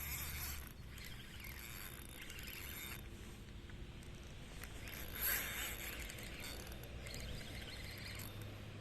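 Outdoor urban ambience: a steady low hum of distant city traffic under an even background wash, with a brief louder noise about five seconds in.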